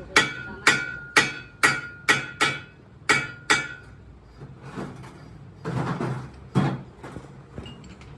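A hammer striking steel: about eight ringing blows, roughly two a second, then after a pause a couple of duller knocks.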